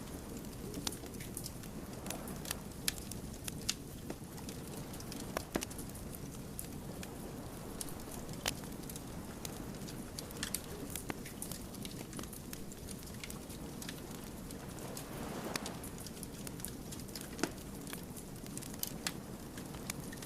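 Wood fire crackling: sharp, irregular pops and snaps of burning logs over a steady low rumble of the flames.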